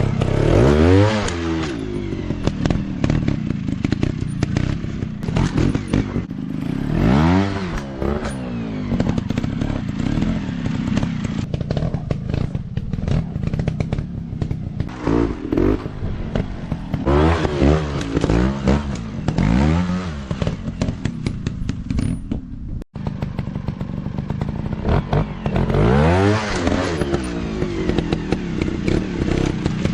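Dirt bike engines revving hard and dropping back again and again as the bikes work over rough ground, with some clatter and knocks in between.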